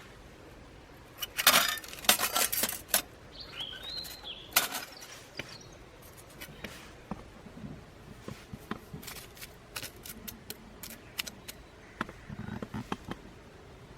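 A series of sharp clicks and light knocks, loudest in a clatter near the start, then thinner ticks spread through the rest. A bird call sounds briefly about four seconds in.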